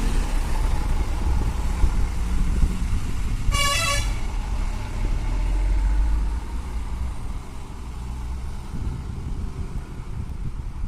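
Heavy lorry engine rumbling on a ghat road, with one short horn blast about three and a half seconds in. The rumble eases after about six seconds.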